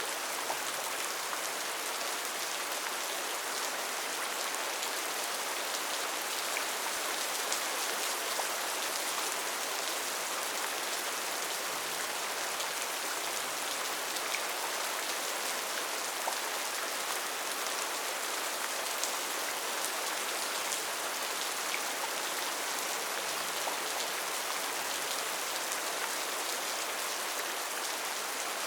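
Steady heavy rain falling in a rainforest, an even hiss with scattered individual drops ticking on leaves and surfaces.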